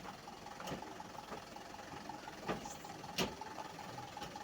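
Truck engine running steadily with a faint steady whine, broken by a few sharp knocks, the loudest about three seconds in.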